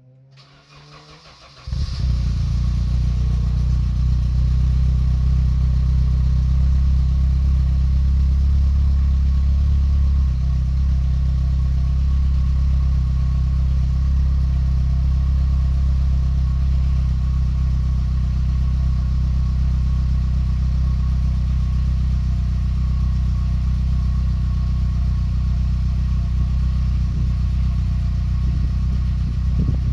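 BMW E30 M3's four-cylinder S14 engine on a cold start: it cranks briefly, catches under two seconds in, and settles into a steady idle, a little louder for the first ten seconds or so.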